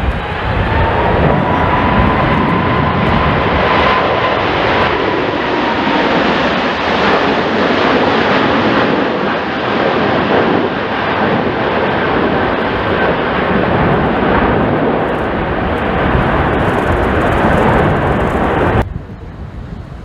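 Jet airliner's engines running loud: a dense rush with a faint steady whine over it in the first few seconds. The sound cuts off abruptly near the end.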